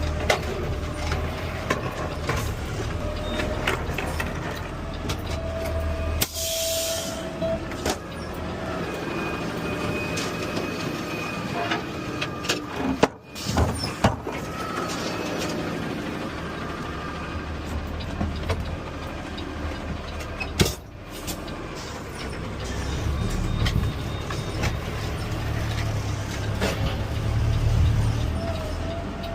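Peterbilt 520 CNG garbage truck running, with a short air-brake hiss about six seconds in and a few sharp knocks around the middle.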